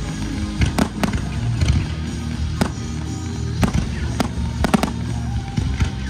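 Fireworks shells bursting in a display, about ten sharp bangs at irregular intervals, some in quick pairs, over music played along with the show.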